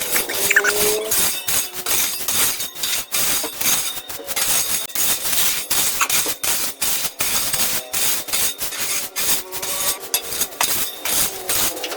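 Irregular scraping and knocking of hand tools at work, with many sharp strikes a second.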